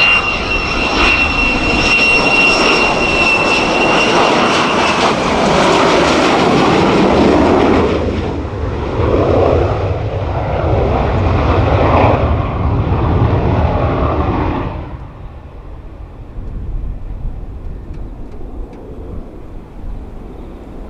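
F-35B fighter jet's engine, loud as the aircraft flies past, with a high whine over the noise for the first few seconds. The sound drops off sharply about fifteen seconds in.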